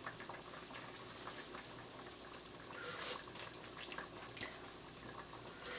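Pot of matzo ball soup simmering faintly, a low steady bubbling hiss, with a couple of brief soft sounds around the middle.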